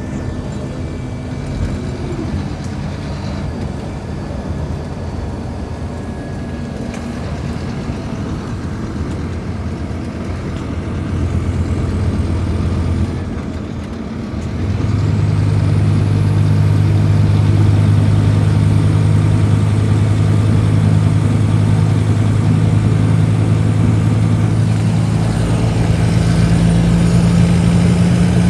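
Scania K310IB bus's diesel engine running steadily. About halfway through it rises to a louder, steady drone that holds until it eases off at the very end.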